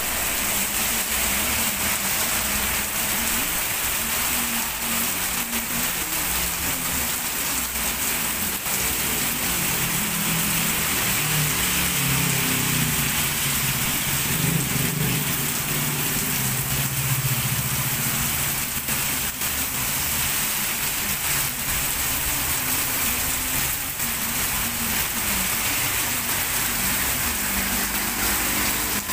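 Heavy rain falling steadily on a wet street. Partway through, a car drives past through the water, its engine hum and tyre noise swelling and then fading.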